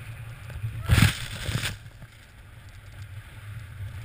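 Steady wind rumble on the microphone as a snowboard rides through fresh powder. About a second in comes a loud rush of snow lasting nearly a second, the board carving a turn through the powder.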